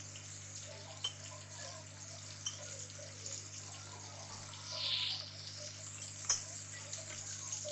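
Vegetables frying faintly in oil in an aluminium pressure cooker: a steady low sizzle, with a brief louder hiss about five seconds in and a few light clicks from the spoon against the pot.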